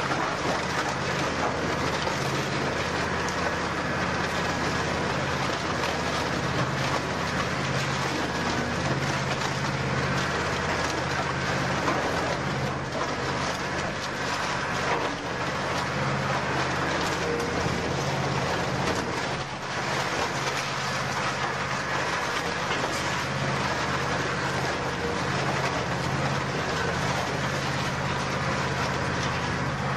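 Heavy scrap-processing machinery running steadily: a low hum under a continuous dense clatter of scrapped car metal being crushed and shredded.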